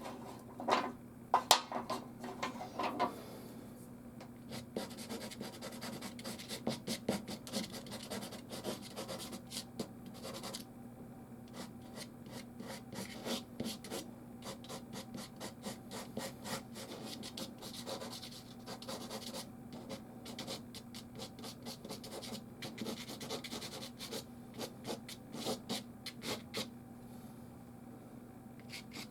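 Soft pastel rubbing and scratching across canvas in quick, repeated strokes, with a few louder strokes in the first three seconds.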